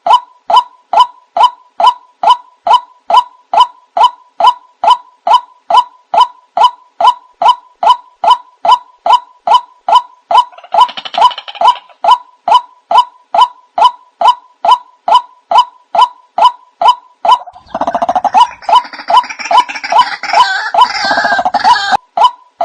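White-breasted waterhen lure recording: one short call repeated in a strict, even loop, about two and a half calls a second. A louder, rougher noise joins it about eighteen seconds in and lasts some four seconds.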